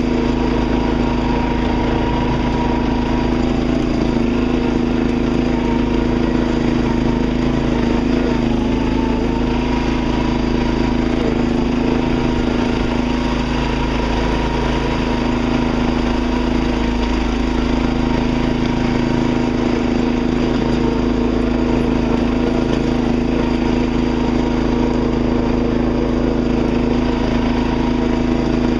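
Riding lawn tractor's small engine running at a steady speed, its pitch and level unchanging throughout.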